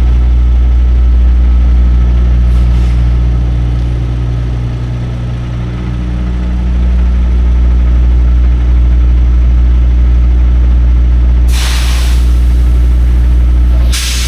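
A semi truck's diesel engine running with a steady low drone, heard from inside the truck. It dips a little about five seconds in. Two short hisses of air from the air brakes come about eleven and a half seconds in and again near the end.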